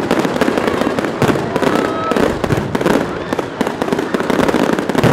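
Fireworks and firecrackers going off in a dense, unbroken run of rapid sharp bangs and crackles.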